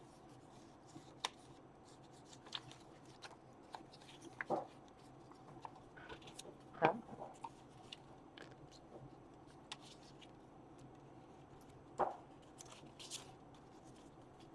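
Paper craft handling at a table: light rustling of paper and scattered small clicks and taps, with three louder knocks, one a little before the middle, one just after it and one near the end.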